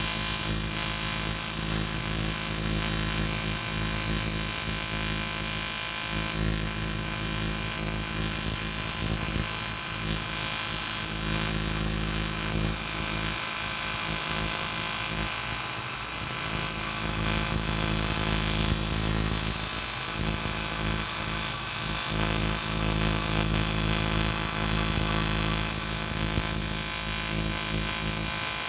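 AC TIG welding arc on aluminium, buzzing steadily without a break, with a high hiss over the hum.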